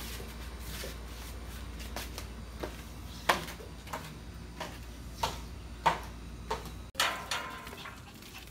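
Footsteps going down stairs, about six steady steps roughly two-thirds of a second apart, then a louder clatter of a metal bar gate being taken hold of near the end.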